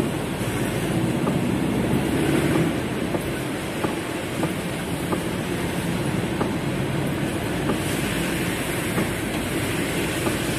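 Heavy rain falling on a car's roof and windows, heard from inside the car: a steady dense patter with scattered single drops ticking out.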